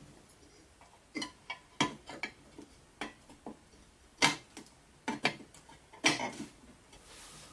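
Small metal toy-truck parts clicking and knocking against each other as they are handled and fitted together, in irregular light taps.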